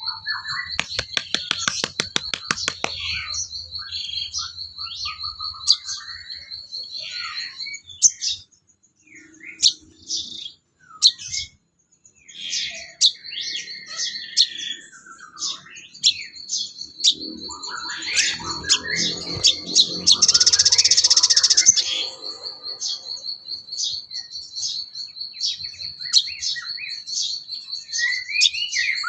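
Songbird calls from a sogon bird-training recording: varied chirps and short gliding whistles over a steady, high-pitched rapid trill that drops out for several seconds in the middle. About twenty seconds in comes a loud, harsh hissing call lasting a couple of seconds.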